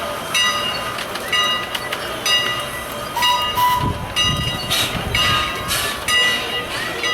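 Train wheels rolling over rail joints: repeated metallic clacks, each with a brief ringing, at an uneven rhythm of roughly one to two a second.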